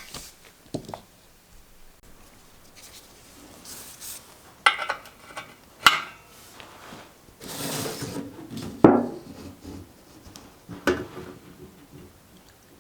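Scattered clinks and knocks of metal parts being handled and set down, with a brief rushing sound about two-thirds of the way through.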